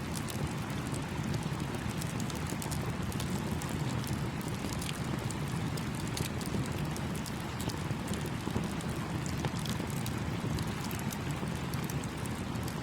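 Campfire crackling with frequent small, sharp pops, over the steady rush of a running stream.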